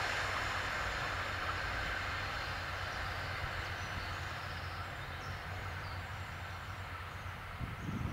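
Electric train dying away after passing, its rail rumble fading steadily to a low hum.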